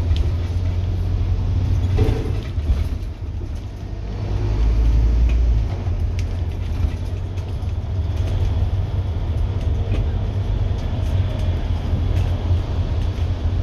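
Scania N230UD double-decker bus's diesel engine running hard under load, a deep steady drone with light rattles, swelling louder about four to five seconds in.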